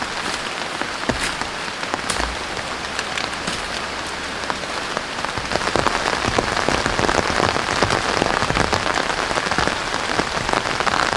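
Heavy rain falling, a steady hiss with many sharp drops ticking close by; it grows louder about halfway through.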